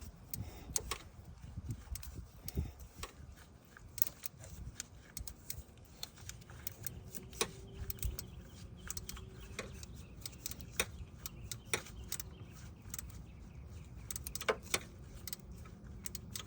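Irregular metallic clicks and clinks of a wrench and ratchet working on the AC compressor mounting bolts in the engine bay, a sharp tick every second or so over a low background rumble.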